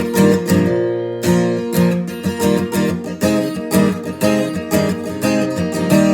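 Acoustic guitar strummed in a steady rhythm, chord strokes several times a second, in an instrumental gap between sung lines of a song.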